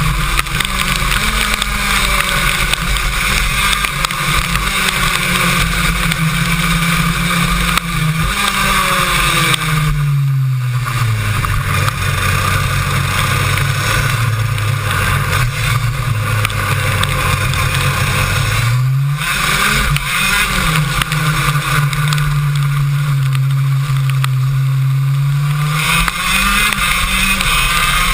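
A KZ2 shifter kart's 125cc two-stroke engine on an onboard mic, running hard at high revs. About ten seconds in its pitch drops as the kart slows, and it pulls at low revs for several seconds. It climbs again, holds high, and drops once more near the end.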